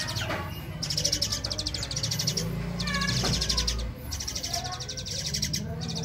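Songbirds chirping: repeated high, fast buzzy trills, each about a second long, with lower chirping notes between them, over a steady low hum.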